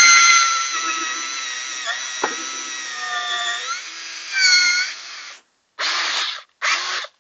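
Electric drill boring a hole in a wooden board. Its motor whine sags slowly in pitch as the bit bites, swoops back up a little over halfway through and stops, then runs in two short trigger bursts near the end.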